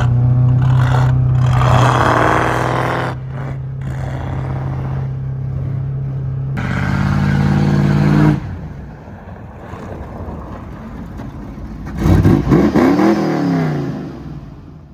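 Ford Bronco engine running hard under load while driving through snow, holding a steady high pitch and then dropping off sharply about eight seconds in. Near the end it revs up and back down once more, then fades away.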